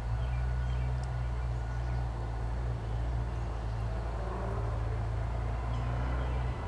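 A steady low motor drone, running evenly with a deep hum and a few fixed low tones.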